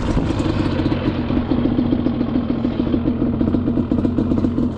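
Yamaha Banshee's two-stroke parallel-twin engine running at low, steady revs, with an even pulsing beat.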